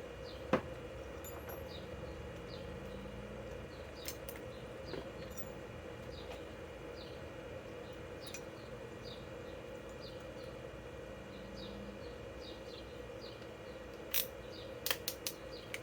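Quiet background: a steady low hum with faint, short chirps repeating every second or so, and a few light clicks about half a second in and near the end.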